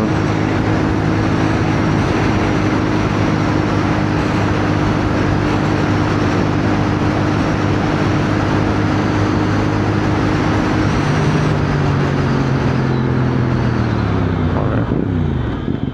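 CFMoto 450NK motorcycle engine running at a steady cruise under a rush of riding wind. About two-thirds of the way through the engine note changes, then falls in pitch as the bike slows near the end.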